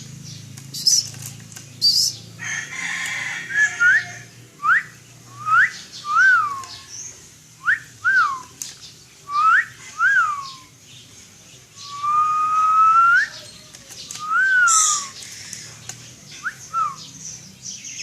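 A series of short whistled notes, each a quick rise and fall in pitch, coming about one a second, with one longer held whistle that rises at its end about two-thirds of the way through.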